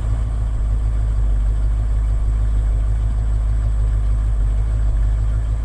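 1980 Ford F100's 302 V8 with a two-barrel carburetor idling after being flooded on a warm start: a steady, loud, deep running sound with a rough, a little bit bouncy idle.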